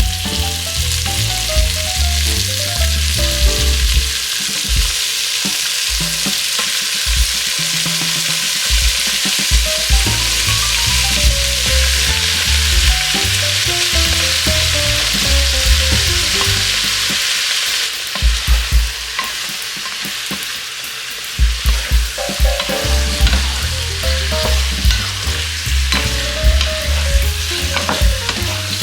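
Pork sautéing in a hot pan with steady sizzling, broken by frequent knocks and scrapes of a spatula stirring. The sizzle drops back for a few seconds past the middle, then picks up again.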